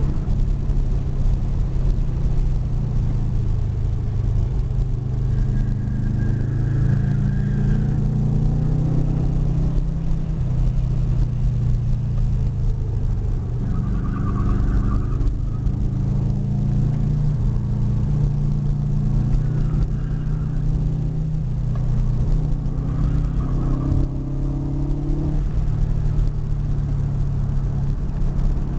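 Car engine and road noise heard from inside the cabin at moderate speed, the engine note rising and falling several times as the driver works the throttle and gears.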